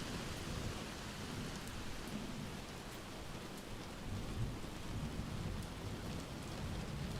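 Steady rain with a low rolling rumble of thunder underneath, and a few faint sharp ticks.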